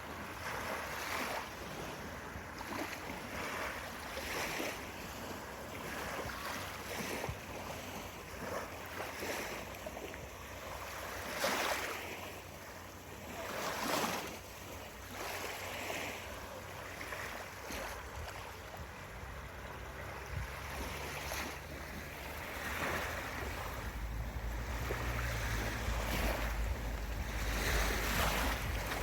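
Small sea waves washing onto the beach, a steady surf with two louder breaking waves about 11 and 14 seconds in. Wind buffets the microphone with a low rumble during the last few seconds.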